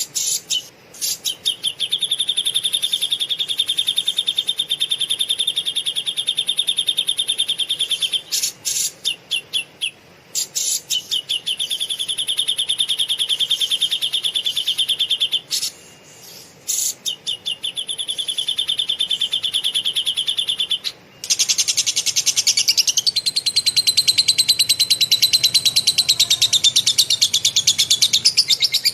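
Cage-bird song of a cucak jenggot and a lovebird: long, very fast, even trills at one pitch, broken by short pauses. About two-thirds of the way through, a denser, higher, rougher chattering takes over.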